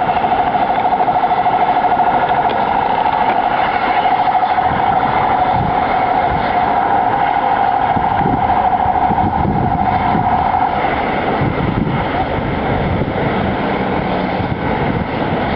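Steady engine-like drone with a constant high whine over a rough rumble; the whine fades out about eleven seconds in.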